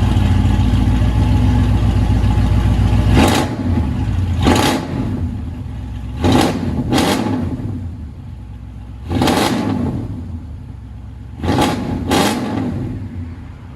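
1998 Chevy K1500 Silverado's 5.7-litre V8, moments after a cold start, through long-tube headers, high-flow cats and straight-piped true dual exhaust. It runs at a loud fast idle, settles lower about three seconds in, and is then revved in about seven short throttle blips.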